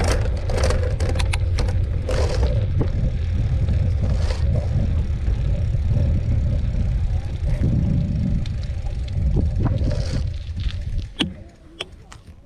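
Mountain bike riding over a dirt trail: a steady low rumble with many rattles and knocks, which dies away about eleven seconds in as the riding stops or slows.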